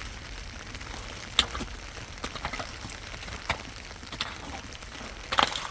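Steady rain with a few scattered sharp knocks and clicks; the loudest come about a second and a half in and near the end.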